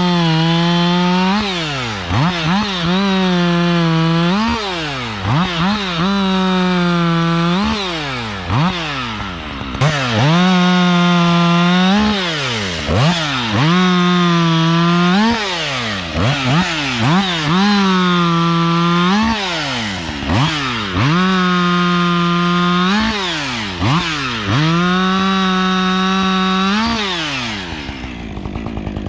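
Husqvarna 562 XP two-stroke chainsaw bucking a downed tree into rounds. The engine revs up to full throttle and holds through each cut, drops back between cuts with short throttle blips, and does this about eight times. Near the end it settles to idle.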